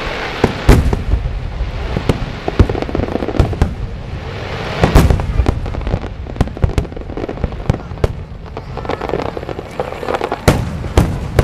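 Aerial fireworks display: an irregular, continuous run of shell bursts, sharp cracks and crackling. The heaviest booms come about a second in, around the middle, and near the end.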